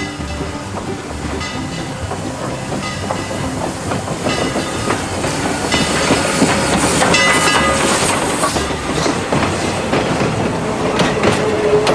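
Passing train cars clattering, their wheels clicking over the rail joints, louder around the middle.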